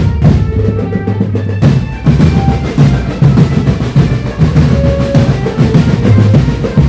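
Indonesian marching drumband playing a dance number: snare drum rolls and bass drum beats, with short melody notes over the drums.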